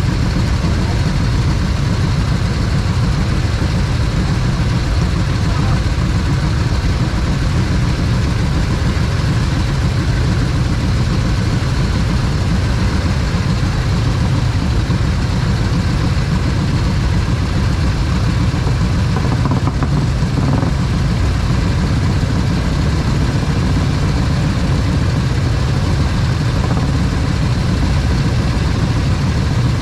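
Motorcycle engine running steadily at an even speed, heard with a constant rush of wind noise.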